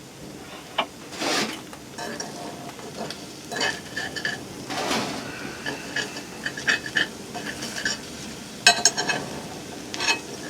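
Spatula scraping and clinking against a frying pan, working loose a frying egg, with a sharp clatter of the pan about three-quarters of the way through.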